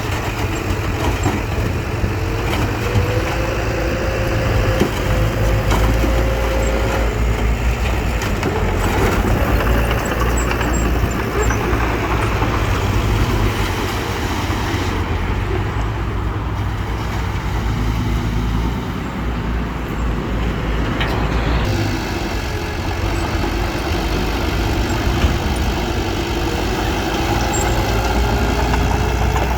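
Diesel engine of heavy earthmoving machinery running steadily under load, with a faint whine over it for the first several seconds.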